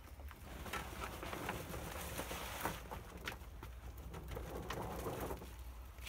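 A bird calling, with a few light steps and rustles on wood-chip mulch.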